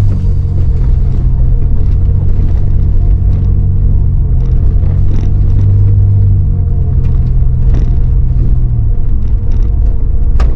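Low, steady rumble of a car being driven, its engine drone shifting pitch a couple of times.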